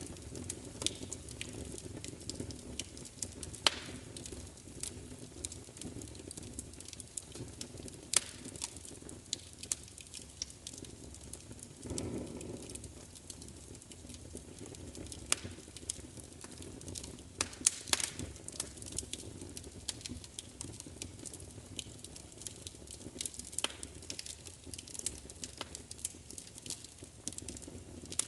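Wood fire burning, with a steady low rumble and frequent sharp crackles and pops, a few of them louder, about 4, 8 and 18 seconds in.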